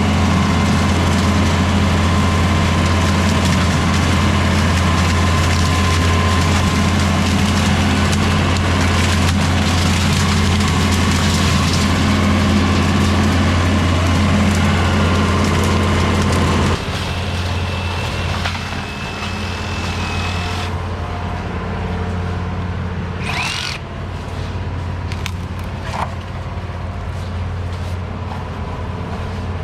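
Diesel engine of an LS MT573 tractor running at a steady speed while its Woods BushBull rotary cutter chews through bamboo with a dense crackling noise. About 17 seconds in the cutting noise drops away and the tractor runs quieter, with a few sharp snaps a little later.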